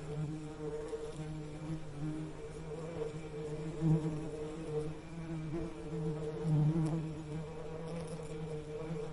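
Bees buzzing in a steady, low, pitched drone that swells louder briefly about four seconds in and again around six to seven seconds.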